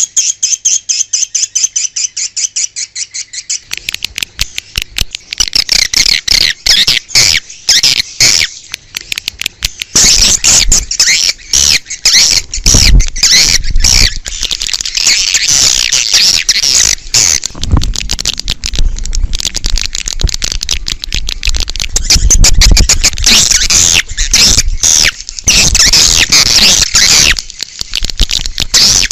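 Swiftlets calling in a dense, rapid chatter of high twittering chirps. A steady run of evenly spaced chirps opens it, and many calls soon overlap. This is a swiftlet lure call of the kind played outside a swiftlet house to draw the birds in.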